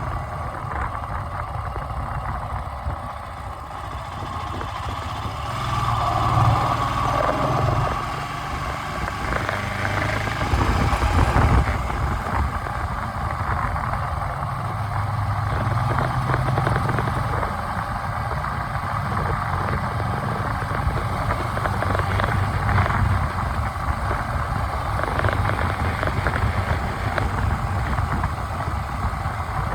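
Steady low rumble of a running vehicle engine, swelling somewhat for a few seconds near the middle.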